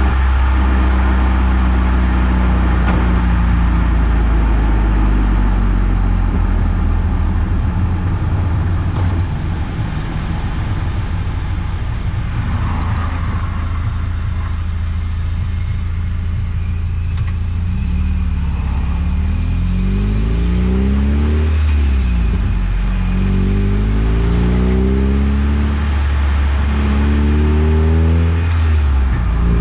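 Mazda Eunos Roadster's four-cylinder engine and road noise while driving: a steady cruise at first, then from a little past the middle the engine pitch rises several times, dropping at each gear change, as the car accelerates through the gears.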